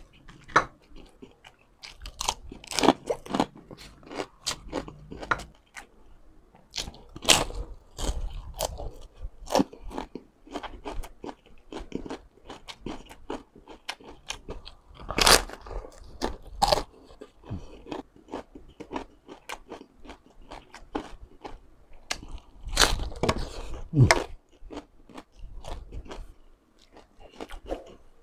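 Close-up chewing and biting of crispy deep-fried pork skin: a run of irregular sharp crunches between quieter chewing, with a few louder clusters of crunches.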